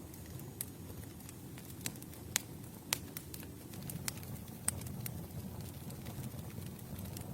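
Wood campfire burning: irregular sharp pops and snaps of the burning wood over a low, steady rumble of flames.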